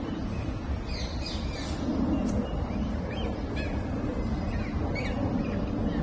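Small birds chirping: a scatter of short, high chirps over a steady low background rumble.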